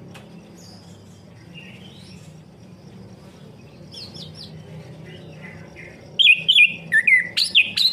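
Orange-headed thrush (anis kembang) singing: a few faint notes, then a loud, quick run of varied whistled phrases near the end, over a low steady hum.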